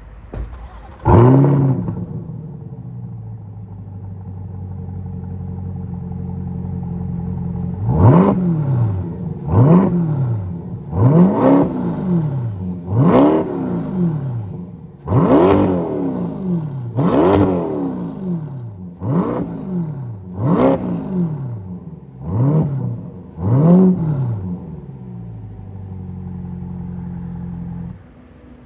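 Warm start of a 2024 Corvette E-Ray's 6.2 L LT2 V8 through an AWE Tuning Track exhaust: it fires with a loud flare about a second in and settles into a rumbling idle. From about eight seconds in come about ten quick throttle blips, each rising and falling in pitch, before it idles again and goes much quieter near the end.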